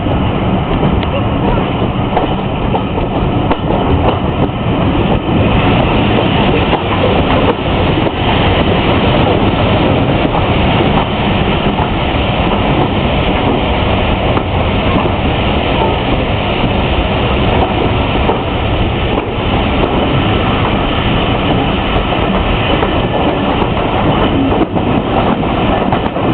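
Steam-hauled passenger train running on the line, heard from an open carriage window: a steady noise of the carriage wheels on the track.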